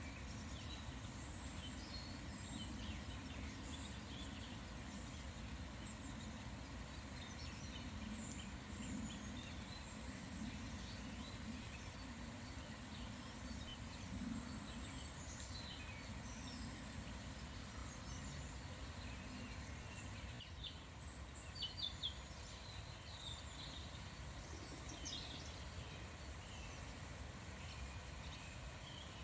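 Small songbirds calling and singing in scattered short chirps over a steady low background rumble. About two-thirds of the way through, a quick run of louder calls stands out.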